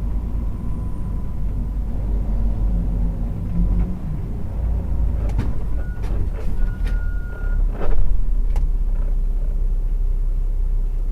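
Steady low rumble of a vehicle driving, engine and road noise heard from a dashcam. A few sharp clicks come after the middle, and a thin high tone sounds for about a second around two-thirds through.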